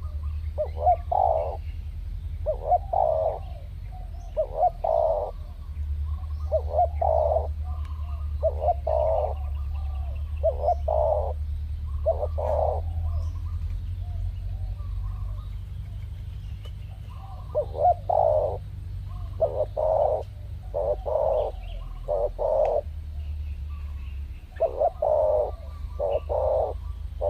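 Spotted dove cooing: a run of short repeated coo phrases, about one every second or two, breaking off for a few seconds around the middle and then starting again. A steady low rumble lies underneath.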